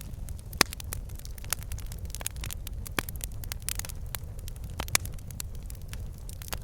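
Wood fire burning in a fireplace: a steady low rumble of flames with logs crackling and popping irregularly, two sharper pops about half a second in and near five seconds.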